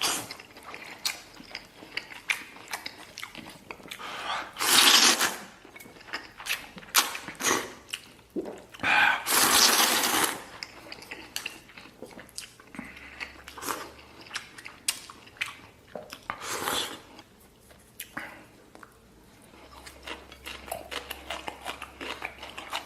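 Close-up eating sounds: a person chewing noodles with many small wet clicks and smacks, and two long loud slurps, about four seconds and about nine seconds in.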